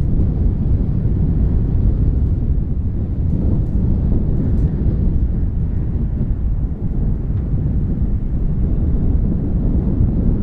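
Strong wind buffeting the microphone: a heavy, choppy low rumble that never lets up.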